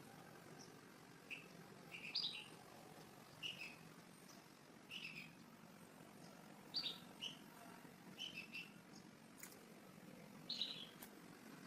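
Small bird chirping: about a dozen short, sharp, high calls, each dropping slightly in pitch, coming irregularly a second or so apart over faint background hiss.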